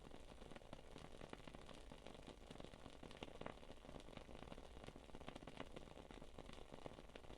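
Wood-wick candle crackling faintly: a dense run of small, irregular pops and ticks like a tiny campfire.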